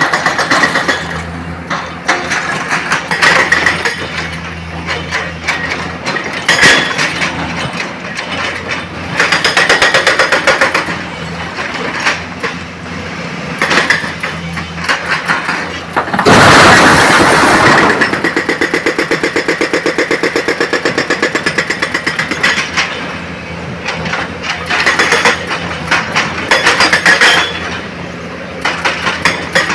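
Diesel excavator working: its engine runs steadily under repeated bursts of rock and stone clattering and crashing, as a truck is loaded. The loudest crash comes about halfway through and is followed by a few seconds of fast, even pulsing from the engine or hydraulics.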